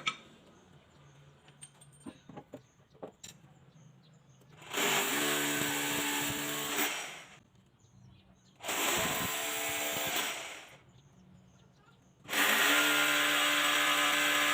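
Handheld electric power tool run in three bursts, each spinning up to a steady whine: the first about 2.5 s long, the second about 2 s, the third starting near the end and still running. A few light clicks and knocks come before the first burst.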